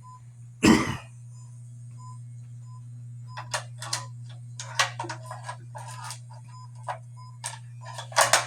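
Operating Lionel model train layout: a steady low hum under a short high beep that repeats about twice a second. A loud clunk comes about a second in, then irregular mechanical clicks and clacks from about three seconds on.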